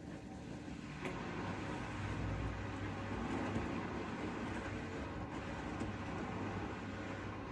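Bosch Serie 4 front-loading washing machine running mid-cycle on its cotton programme, a steady hum and churning from the turning drum. The sound grows louder about a second in, then holds steady.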